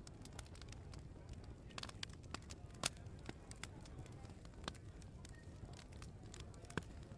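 Wood fire crackling in an open fireplace: irregular sharp pops and snaps over a low steady background, with a louder pop about three seconds in and another near the end.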